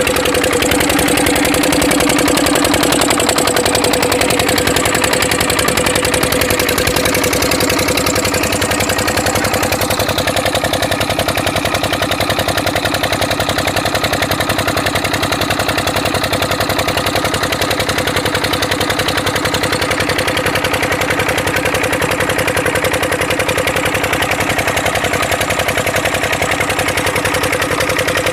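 Water-pump engine running steadily at an even speed, with a fast regular beat.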